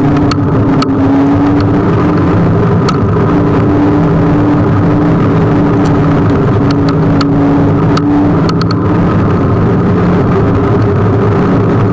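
Riding a Kugoo G1 electric scooter: steady, loud road and wind noise with a low hum, and a few short clicks and knocks from the ride.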